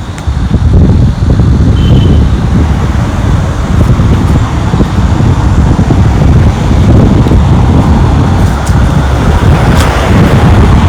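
Loud street noise outdoors: a low rumble of road traffic mixed with wind buffeting the microphone, swelling a little near the end as a vehicle passes.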